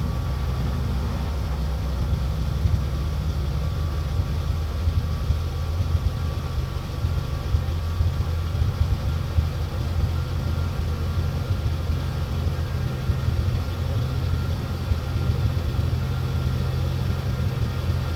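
Dodge Ram V8 pickup engine idling steadily with a low, uneven rumble, shortly after a cold start in sub-zero cold.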